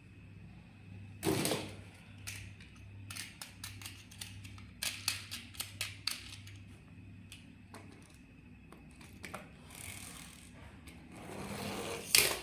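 Small clicks and knocks from a plastic toy being handled: a knock about a second in, then a quick run of sharp clicks, a rustle near the end and one loud click just before it stops.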